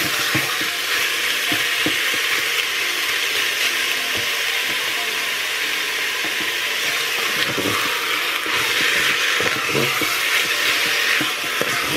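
Meat pieces and onions sizzling as they brown in the nonstick inner pot of a Cookeo electric multicooker, a steady frying hiss, with a wooden spatula scraping and knocking as it stirs them.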